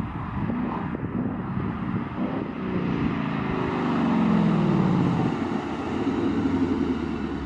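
Exhaust of a 2019 Ford Mustang GT's 5.0-litre V8 through a Pypes H-pipe resonator delete. The engine note climbs in pitch and loudness around the middle, then falls away.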